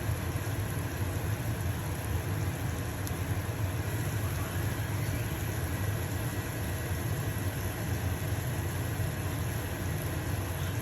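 Stove-top range hood fan running steadily with a low hum, over the sizzle of pancakes frying in a pan.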